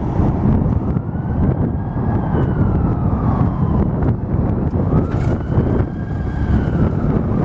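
John Deere 270 skid steer's diesel engine running loudly, with a high whine from the machine that rises, holds and falls twice as it works.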